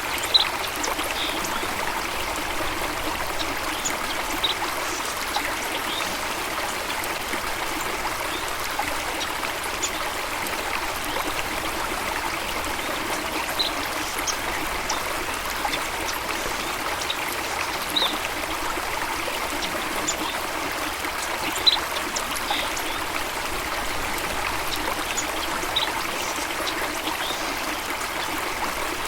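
Steady rush of a stream or small waterfall flowing over rocks, with short high splashes or chirps every few seconds.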